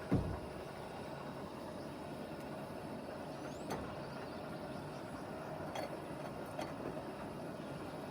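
A single low thump right at the start over a steady rushing background, followed by a few faint light clicks.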